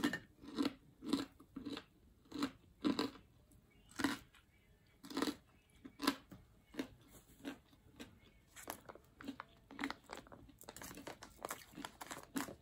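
A person chewing crispy breaded fried chicken close to the microphone: a run of crunches, about two a second.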